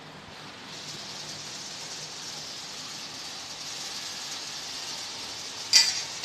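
Garlic sizzling in hot palm oil in a pot, a steady hiss that builds up about a second in. A short clatter sounds near the end.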